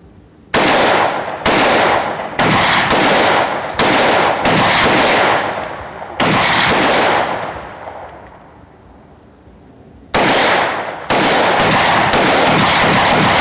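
AR-15 rifle in .223/5.56 firing rapid semi-automatic shots, each one ringing into the next. There are about nine shots over the first six seconds, a few seconds' pause, then a faster run of shots.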